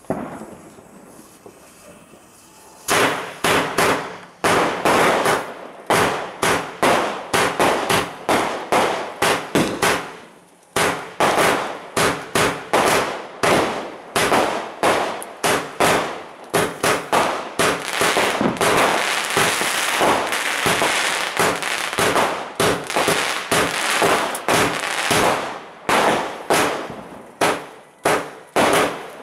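A 144-shot firework cake firing in quick succession, about two bangs a second after a quiet first three seconds, with a short pause about ten seconds in and a stretch of dense crackling midway.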